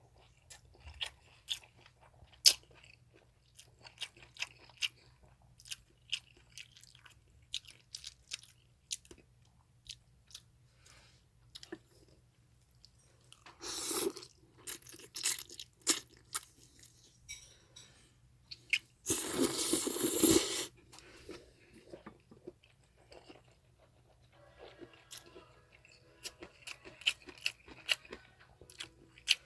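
Close-up chewing and eating of japchae glass noodles: a string of small wet mouth clicks and chewing sounds, broken twice near the middle by a louder rushing noise, the second lasting about a second and a half.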